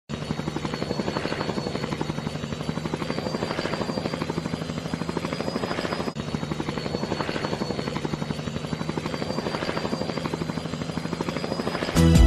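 Helicopter running, its rotor giving a steady, even pulsing beat of about five pulses a second over a constant engine hum.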